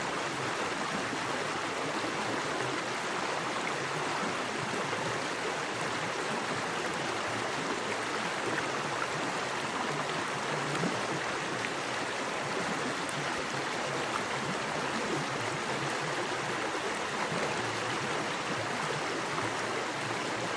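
Small forest creek running fast over rocks: a steady, even rush of water.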